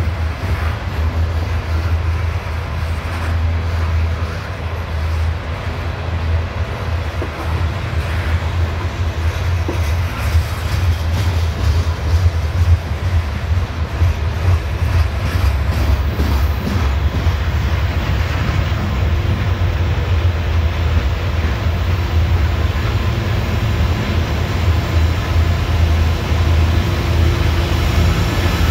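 Coal hopper cars of a long CSX freight train rolling past, with a steady rumble of wheels on rail. Near the end, steady engine tones from the approaching mid-train diesel locomotives rise into it.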